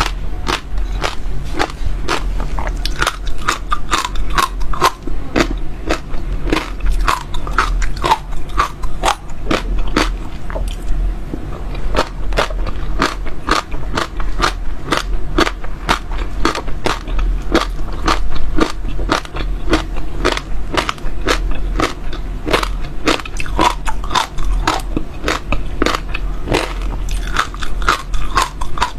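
Close-miked chewing of crunchy seeds, a rapid, continuous run of sharp cracking crunches as the seeds break between the teeth.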